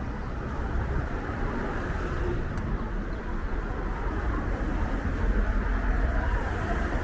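Strong wind buffeting the microphone over street traffic: a steady, noisy rumble.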